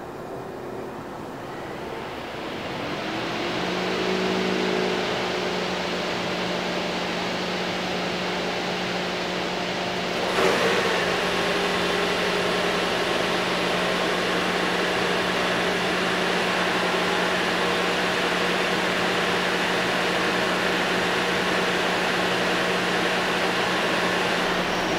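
2021 Toyota Sienna's hybrid four-cylinder engine running at a steady idle hum, swelling in over the first few seconds. A single thump comes about ten seconds in.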